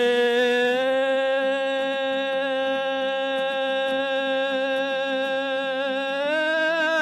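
A single long sung note in a Kazakh folk song, held steady for about seven seconds over a sustained low accompaniment, wavering and rising slightly near the end.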